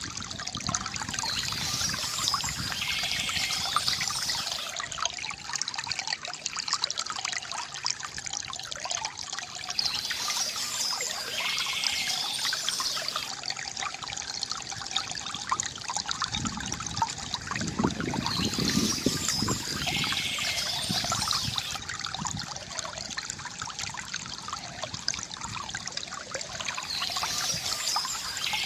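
Water from a bamboo fountain trickling and gurgling steadily, with a deeper gurgle about two-thirds of the way in. Birds chirp in short spells that come back about every nine seconds.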